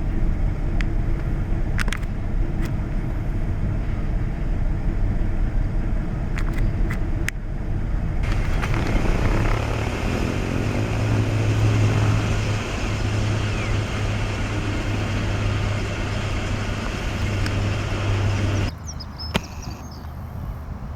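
Steady low engine rumble that changes abruptly twice, with a strong low hum in the middle stretch.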